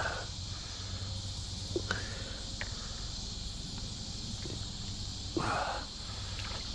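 Steady chirring of crickets and other insects, with a few faint clicks about two seconds in and a short, soft rush of noise about five and a half seconds in.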